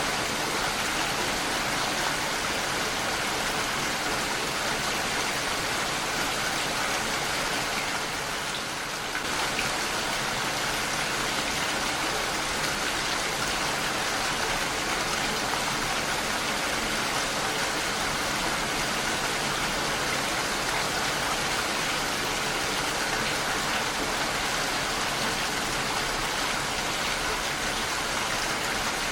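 Heavy rain falling steadily on a window, an even wash of noise that eases slightly for a moment about eight seconds in.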